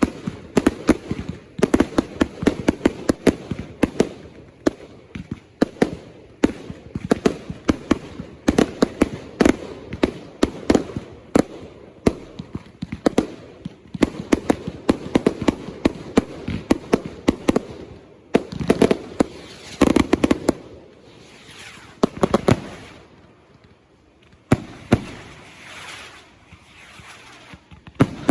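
Consumer fireworks going off: rapid strings of sharp bangs and crackles, several a second, then scattered louder bangs, a short hiss and a brief lull before more bangs near the end.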